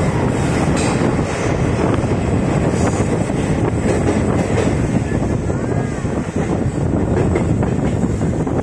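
Passenger train coaches rolling on the rails at speed, a loud, steady rumble heard from the open doorway of a moving coach.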